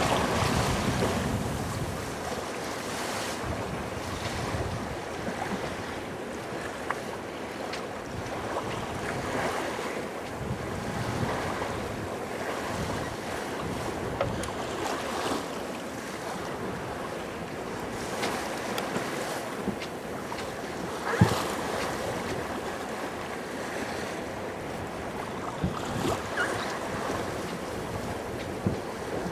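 Wind buffeting the microphone and water washing against a sailboat's hull, with a few short knocks, the loudest about two-thirds of the way through.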